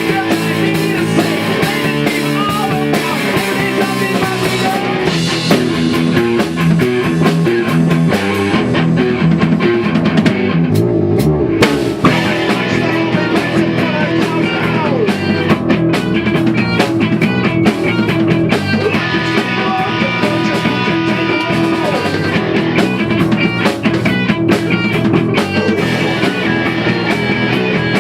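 A rock band playing: electric guitar and drum kit, loud and continuous, with a brief drop in the high end about ten seconds in.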